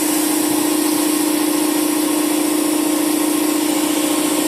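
Air Techniques L66 twin-head dental air compressor with Copeland pumps running steadily: an even hum with a constant airy hiss over it.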